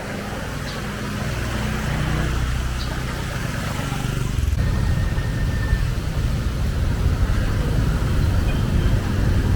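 Motor vehicle engine running close by, turning into a louder, rougher low rumble about four and a half seconds in.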